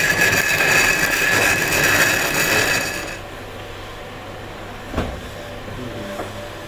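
Power tool working stone, running with a high steady whine, then cutting off about three seconds in; a single knock follows a couple of seconds later.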